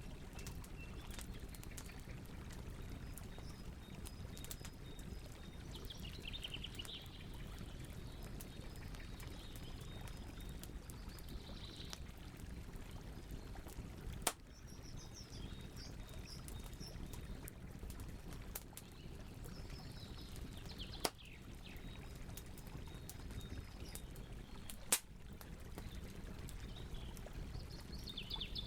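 Campfire burning with a steady low rush and the sharp pop of the burning wood three times, the loudest sounds. Birds chirp in short trills every few seconds over the fire.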